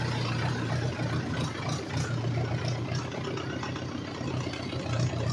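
Tractor engine running steadily at low revs, a constant low hum.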